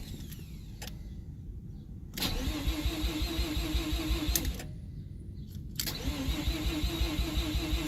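Mazda RX-7 FC3S's 13B rotary engine cranking on the starter without catching, in two attempts: one beginning about two seconds in and lasting a couple of seconds, another starting about six seconds in. The engine won't start.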